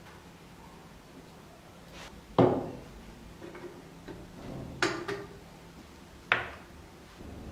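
A few sharp knocks and clacks of handling in a workshop: the loudest about two and a half seconds in, a quick double knock near five seconds, and one more about six seconds in.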